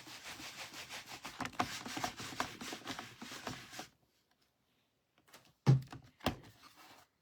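Paper being rubbed and pressed down on a craft table for about four seconds, with small scratchy ticks. After a short pause come two sharp dull thumps about half a second apart, the loudest sounds here.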